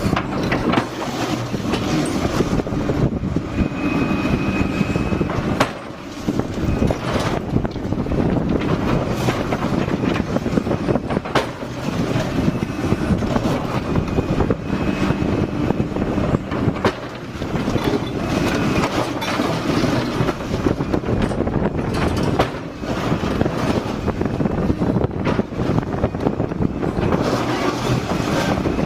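Liebherr hydraulic excavator at work: the diesel engine running under load, with repeated metal clanks and brief high hydraulic or metal squeals.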